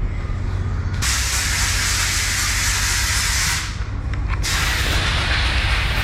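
Compressed air hissing from a nozzle in two long blasts, the first about two and a half seconds long and the second starting after a short break, over a steady low workshop hum.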